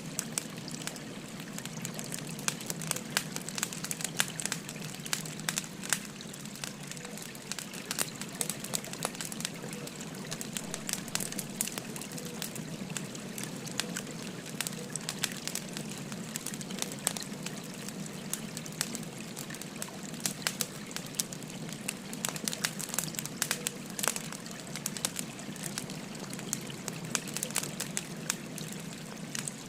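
Wood fire crackling with frequent sharp pops and snaps, over the steady rush of a flowing stream.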